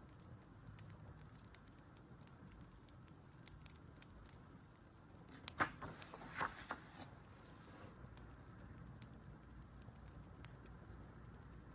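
Wood fire crackling softly, with scattered small pops and snaps. A little past halfway, a short cluster of louder clicks and a rustle stands out.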